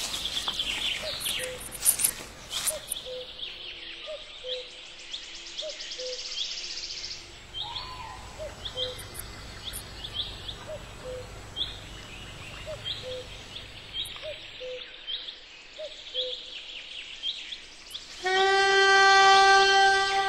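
Woodland ambience with a bird giving a short rising call over and over, a little under a second apart. Near the end a much louder, steady flute-like note begins.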